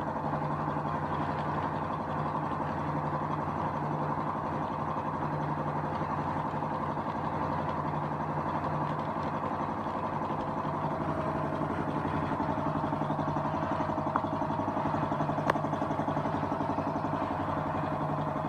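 An engine running steadily at an even speed, with two sharp ticks about fourteen and fifteen and a half seconds in.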